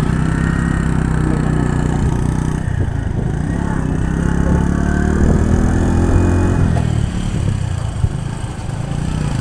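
Motorcycle engine running under way, with a rising pitch as it accelerates for a few seconds in the middle, then easing off.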